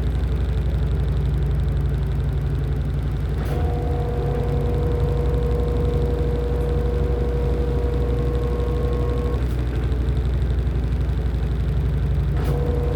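LG top-loading washing machine running, with a steady low motor hum. A higher whine comes on with a click about three and a half seconds in, stops a few seconds later, and comes back with another click near the end.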